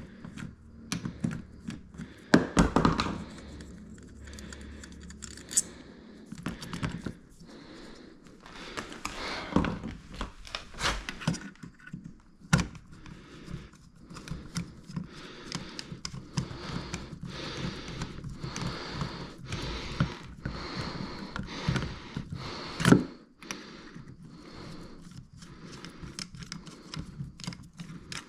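Irregular clicking, clattering and rustling of small hard objects being handled, with a few louder knocks, the sharpest a little past the middle.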